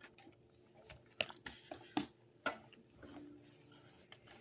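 Close-miked mouth sounds of someone eating: quiet chewing with about five sharp wet clicks and smacks spread out.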